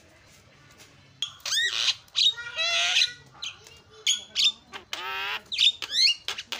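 Javan myna (jalak kebo) singing in full voice. After about a second of quiet it breaks into a quick, varied run of harsh squawks and sliding whistled notes.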